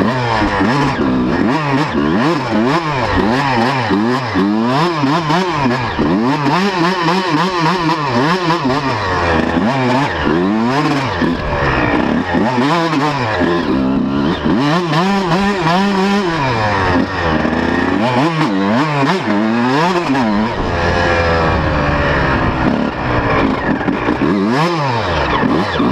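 125cc two-stroke motocross bike riding hard, its engine note climbing and dropping back over and over as the throttle is worked.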